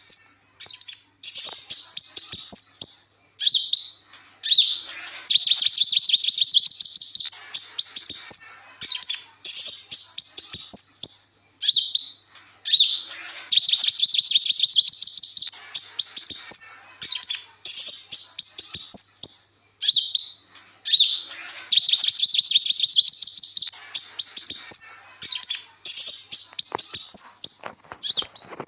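Kolibri ninja, a small sunbird, singing in repeated bouts of high, fast twittering and trilling. Some phrases run on for two or three seconds, with short gaps between bouts.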